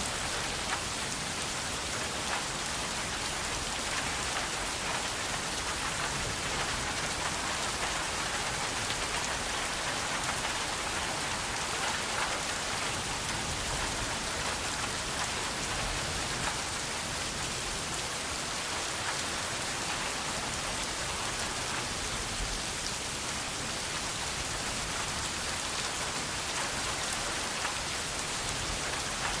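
Steady rain falling and pattering on a surface, an even hiss with many fine drop ticks.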